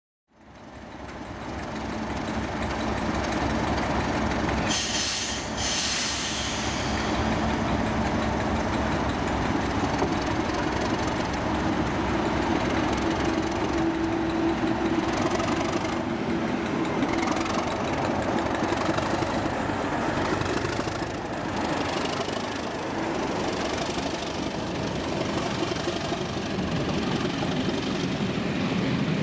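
Two Class 37 diesel-electric locomotives, each with an English Electric V12 diesel, running under power as they pull away slowly with a train. There is a brief high hiss about five seconds in.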